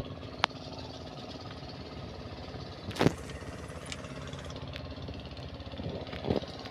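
An engine running steadily at idle, with a few sharp metallic knocks and clatters over it: one at the start, one half a second later, a louder clatter about three seconds in and another near the end.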